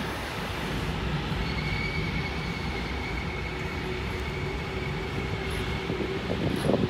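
SNCB passenger train rolling slowly past with a steady rumble and a thin, high wheel squeal, joined by a lower steady tone. A short burst of loud clunks comes near the end.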